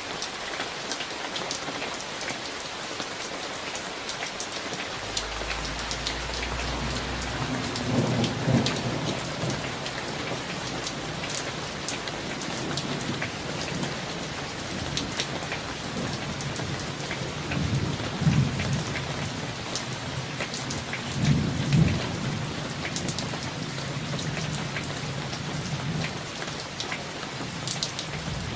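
Steady rain falling during a summer thunderstorm, with thunder rumbling from about five seconds in and swelling louder three times, around a third of the way in, past the middle and again soon after.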